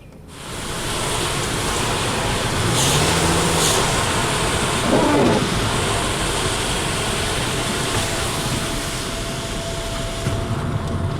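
Steady rushing road noise of a moving vehicle, starting suddenly. A distant outdoor warning siren's steady tone comes in faintly in the second half.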